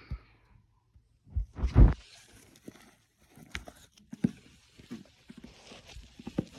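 Handling noises: scattered crackles and small knocks, with one heavy thump just before two seconds in.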